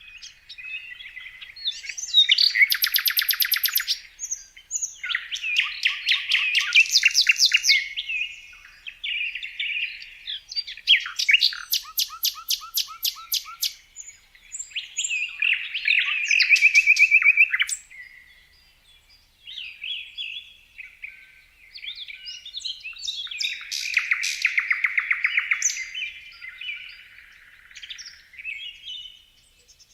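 Songbirds singing: a series of varied chirping phrases and fast trills, each a second or two long, with short pauses between.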